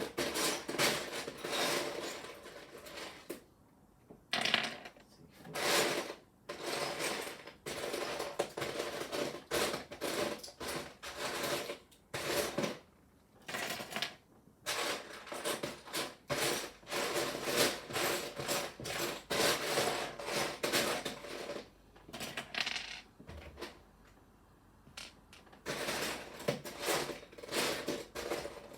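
Small plastic Lego pieces clattering and clicking against each other as a hand rummages through a pile of loose parts, in bursts with short pauses between.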